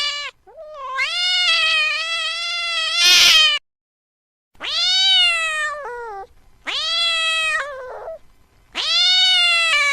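Domestic cat giving four long, drawn-out meows in a row, each a second and a half to nearly three seconds long, rising in pitch at the start and dropping off at the end.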